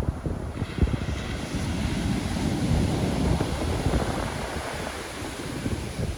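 Ocean surf: a wave breaks and its wash hisses up the shore from about half a second in, dying away near the end. Wind buffets the microphone underneath.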